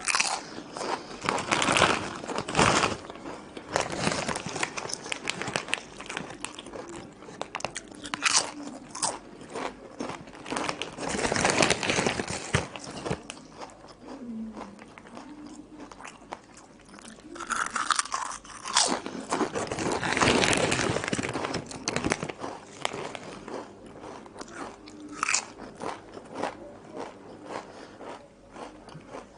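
A person biting and chewing crunchy potato chips: irregular bursts of crisp crunching, with quieter chewing between bites.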